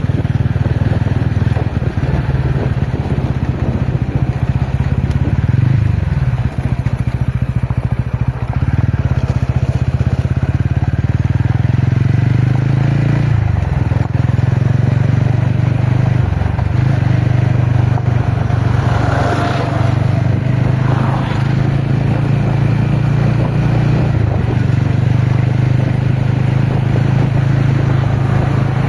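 TVS Ronin motorcycle's single-cylinder engine running under way off-road, its note stepping up and down again and again with throttle and gear changes. A brief higher rasp is heard about twenty seconds in.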